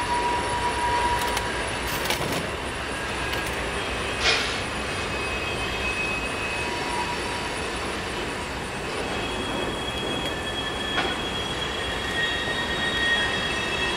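Freight train cars rolling steadily past, with thin wheel squeals coming and going and a few sharp knocks.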